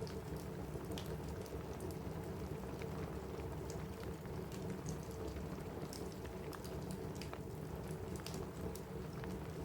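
Steady rain falling on a cabin roof, a dense even patter, with scattered sharp crackles and ticks from a wood fire in a fireplace throughout.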